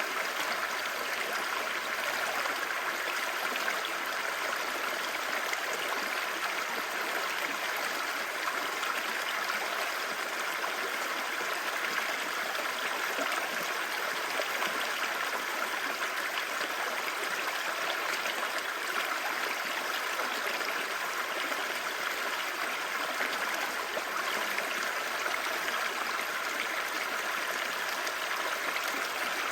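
A clear mountain stream babbling steadily over rocks: an even, continuous rush of flowing water.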